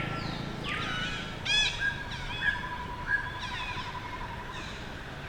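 Baby monkey crying: a series of short, high-pitched, mostly falling cries, the loudest about a second and a half in.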